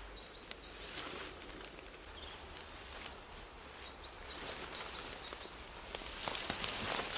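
A bird in the woodland repeats a short chirping note in two quick runs of about five notes, one at the start and one about four seconds in. From then on a dry rustling and crackling, as of leaves and twigs being trodden or handled, grows louder.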